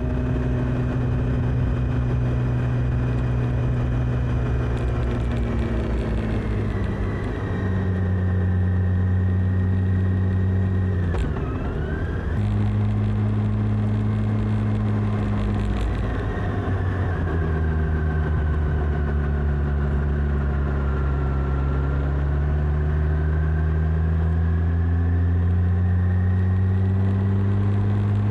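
Motorcycle engine running under way. Its note holds steady, drops about seven seconds in, and cuts out briefly around eleven seconds as if for a gear change, then climbs slowly through the last ten seconds as the bike gathers speed.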